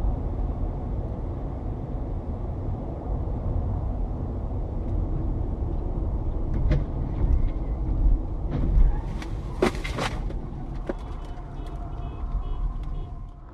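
Road noise of a car being driven, recorded by a dashcam: a steady low rumble of engine and tyres. Sharp knocks come once about two thirds of the way in, then as a louder cluster about nine to ten seconds in.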